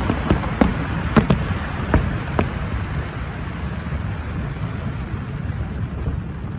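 Fireworks display: several sharp bangs in the first two and a half seconds, then a continuous low rumble of distant bursts that slowly eases off.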